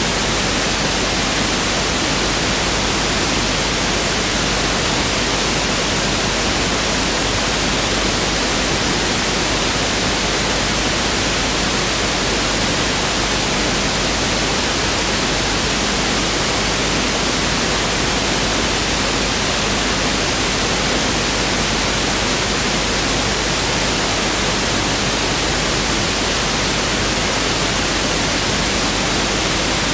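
Pink noise test signal (1/f noise), a steady, even hiss that is unchanging throughout.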